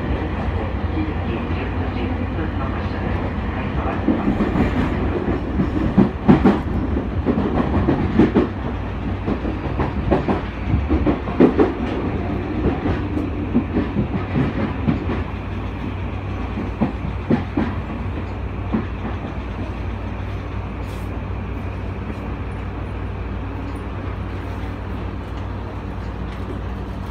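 Inside a Tokyu 2020 series electric train: running noise with the wheels clattering and knocking over rail joints and points. The knocks are thickest in the first half. Then it settles to a steadier, slightly quieter rumble as the train pulls into the station.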